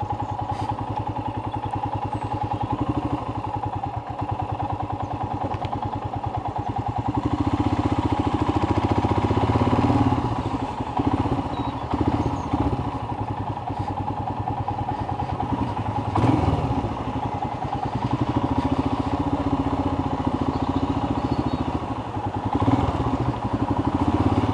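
Royal Enfield Himalayan's single-cylinder engine running as the motorcycle is ridden. The engine note swells louder in stretches, about seven to ten seconds in and again around sixteen seconds.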